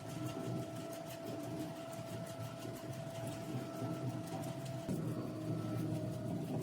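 Screw press dewatering machine running steadily: a low hum with a held whine and a fast, even ticking over it. The whine dips slightly in pitch about five seconds in.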